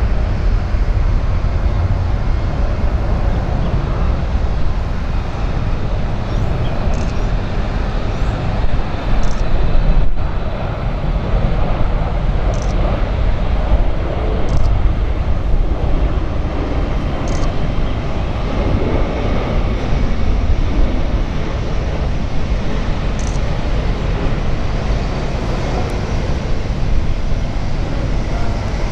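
Jet airliner engine noise, a loud steady rumble of an aircraft climbing away after takeoff.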